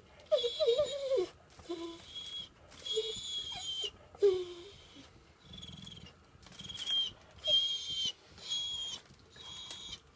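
Dog making high, bird-like twirping whines: about a dozen short squeaky chirps, each about half a second, with lower warbling whines in the first few seconds.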